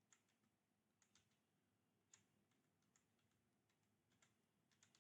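Near silence, with very faint scattered clicks.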